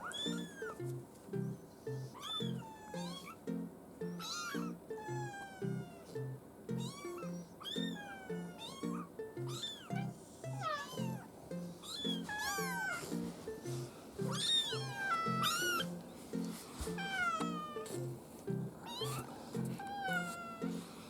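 A young kitten, about 24 days old, meowing over and over in short high-pitched cries, one or two a second. Background music with a steady pattern of repeated low notes plays underneath.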